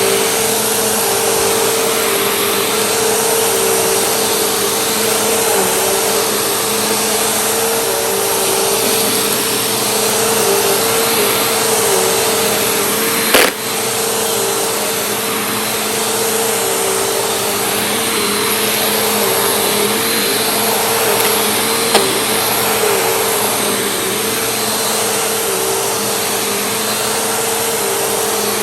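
Vacuum cleaner running steadily, its motor whine holding one pitch with slight dips now and then. A sharp click about halfway through and a smaller one later.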